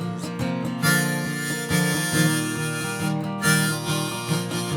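Harmonica playing two long held chords over strummed acoustic guitar, an instrumental break with no singing.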